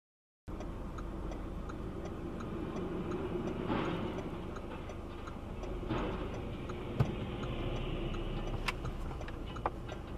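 Steady low engine and road rumble inside a moving vehicle, with a faint even ticking throughout and a few sharp knocks near the end.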